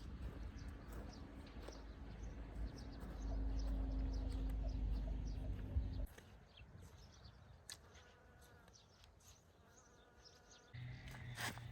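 A bee buzzing close by with a steady hum that grows louder about three seconds in and cuts off about six seconds in. Small birds chirp throughout.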